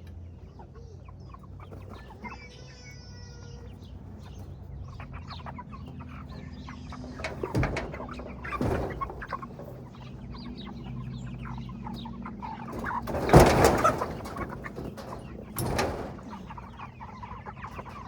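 Cornish cross meat chickens clucking, with one short call about two seconds in. Four loud bursts of noise break in, the loudest about two-thirds of the way through.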